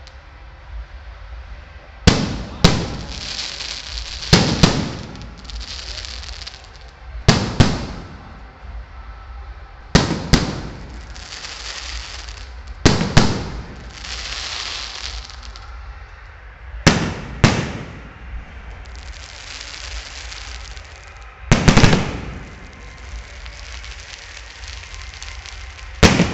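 Fireworks going off: loud sharp bangs every few seconds, often two in quick succession. Each is followed by a crackling hiss that fades over a second or two.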